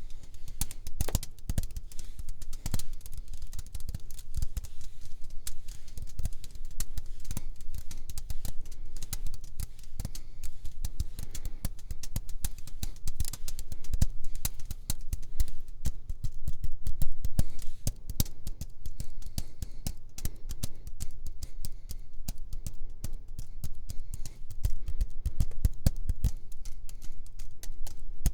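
Layered ASMR tapping and mouth sounds: fast, dense clicks and taps, many a second, keeping up without a break.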